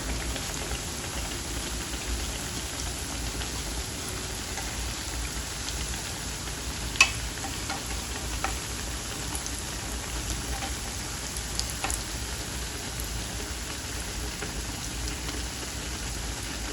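Yeast-dough donuts deep-frying in hot oil in a pan: a steady sizzle, with one sharp click about seven seconds in and a few fainter ticks after it.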